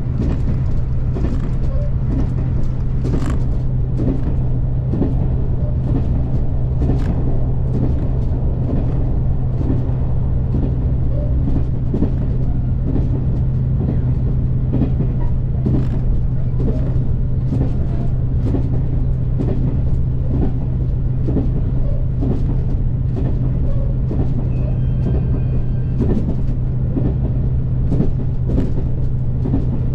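Cabin noise inside a KiHa 283 series diesel express railcar on the move: a steady low diesel engine drone under a constant rumble, with frequent knocks and rattles as the car shakes hard.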